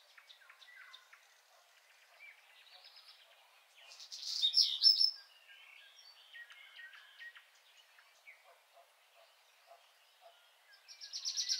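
Songbirds chirping and calling, with a loud, rapid high trill about four seconds in and another starting near the end.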